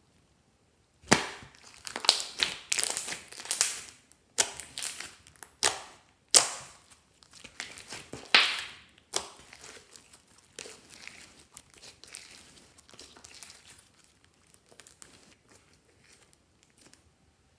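Clear slime being squished and kneaded by hand, with bursts of crackling and popping. After about nine seconds it thins to faint, scattered crackles.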